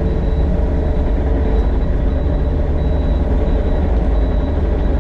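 Excavator's diesel engine running steadily under load, a constant drone with a faint high whine above it.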